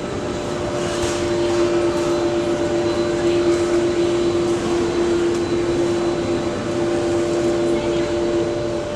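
Jet airliner engines running at low power: a steady rushing noise with two steady hums that come in at the start.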